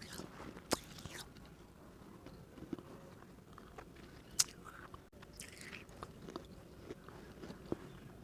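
Hard baked-clay diya being bitten and chewed: sharp crunching cracks about a second in and loudest at about four and a half seconds, with small gritty crunches between as the pieces are chewed.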